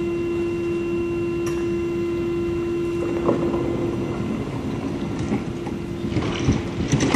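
KTX high-speed train at the platform giving off a steady electric hum. From about three seconds in a rumbling noise joins it, the hum fades near the end, and a brief clatter follows.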